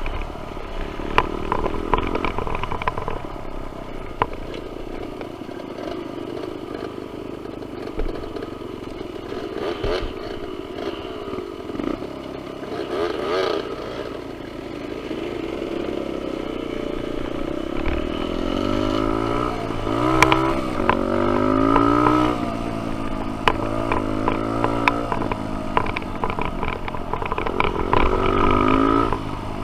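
Dirt bike engine on a trail ride, its pitch rising and falling again and again as the throttle opens and closes, with rattles and knocks from the bike over rough ground.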